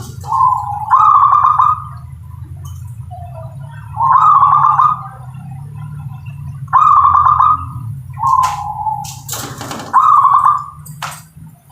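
Zebra dove cooing: about six short, trilled coo phrases, each roughly a second long, repeated every second or two over a steady low hum, with a few sharp clicks near the end.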